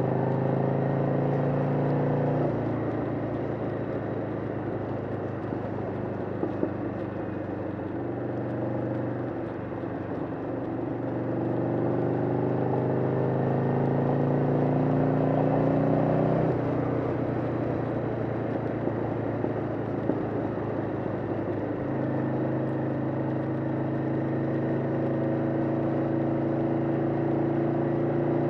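1991 Harley-Davidson Sportster XL883's air-cooled 883 cc V-twin running at road speed. Its note climbs for a few seconds, drops suddenly, then steps up again as the throttle and speed change.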